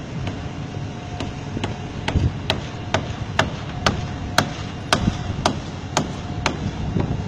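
Hammering, sharp blows at about two a second that grow louder and more regular from about two seconds in, over a steady low rumble.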